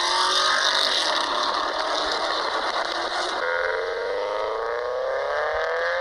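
Car engine and exhaust accelerating, the pitch climbing steadily, then dropping abruptly about three and a half seconds in and climbing again.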